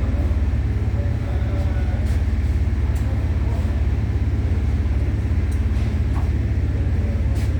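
Steady low mechanical rumble of running machinery, with a fast, even pulse, and a few light clicks about three seconds in and near the end.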